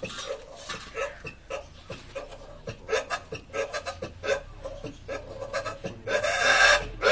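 A dog panting in quick, short, rhythmic breaths, about two to three a second. A louder, longer breathy sound comes near the end.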